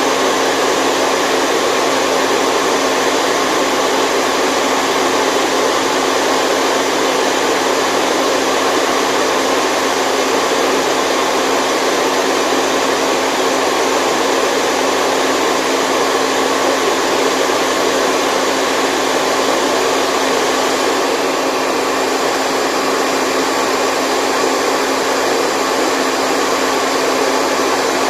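Continuous white noise for a baby's sleep: an even, steady hiss with a faint low hum underneath, barely changing throughout.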